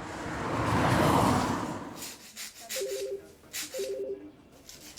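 A whoosh that swells and fades in the first two seconds. Then two short electronic telephone rings, each a rapid warbling two-tone burst, with light clicks around them.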